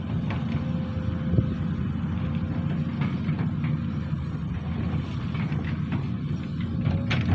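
Sany SY215C hydraulic excavator's diesel engine running steadily under work, with a faint steady whine above the rumble. A sharp knock comes about a second and a half in and another at the end.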